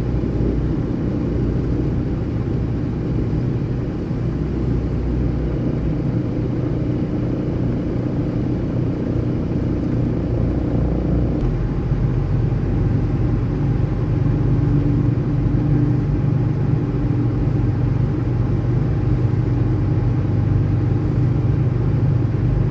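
Semi-truck diesel engine running steadily, heard from inside the cab as a low rumble; the engine note changes about halfway through.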